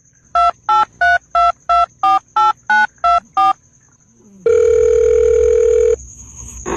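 Telephone keypad touch-tones: ten short two-note beeps, about three a second, as a number is dialled. A steady phone tone follows for about a second and a half.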